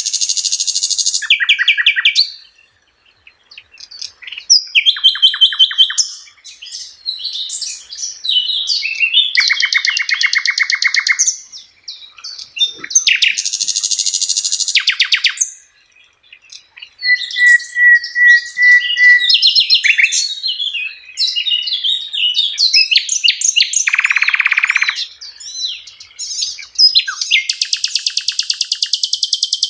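Songbird song made of loud rapid-fire bursts, each a second or two of fast repeated rattling notes, mixed with short whistles and chatter: the harsh 'tembakan' phrases that Indonesian bird keepers use as training song.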